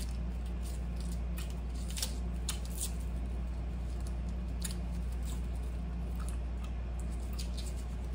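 Someone chewing soft, chewy candy with the mouth, making scattered small wet clicks and smacks over a steady low hum.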